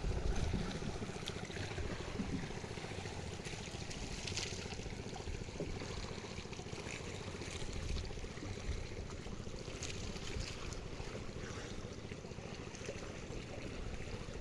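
Steady wind rumble on the microphone over moving sea water, with a few faint knocks.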